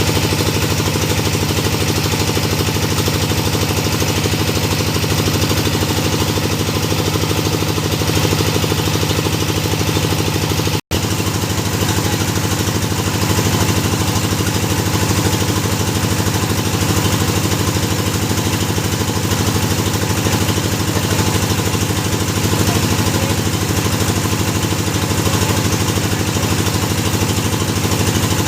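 Engine of a hydraulic well-drilling rig running steadily and loud under load, with one split-second dropout about eleven seconds in.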